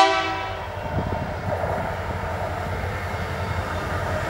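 A diesel freight locomotive's horn cuts off at the very start, its ring dying away within a moment. Then the approaching locomotive's diesel engines rumble steadily, growing slowly louder.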